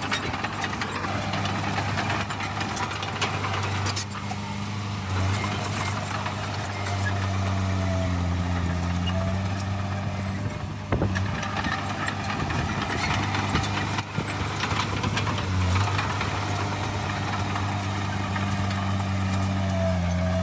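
Heavy earthmoving machine's diesel engine running steadily, its pitch dipping and rising slightly a couple of times, with a short knock about eleven seconds in.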